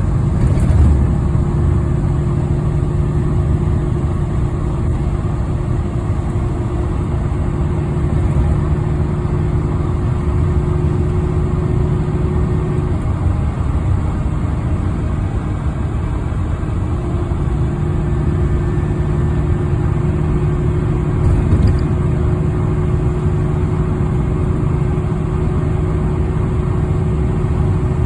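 A motor vehicle's engine running at a steady speed, with a constant low hum that eases off for a few seconds in the middle and then picks up again.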